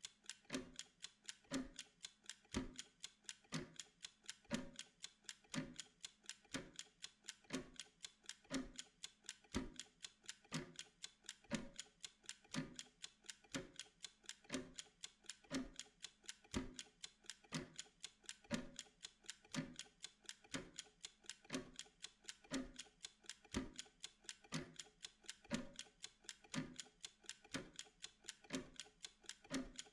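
Mechanical kitchen timer ticking steadily while it counts down: a rapid, even run of light ticks with a stronger, lower tick about once a second.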